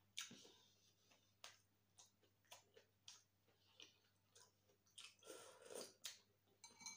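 Faint, close-miked chewing: soft wet mouth clicks and smacks, about one or two a second.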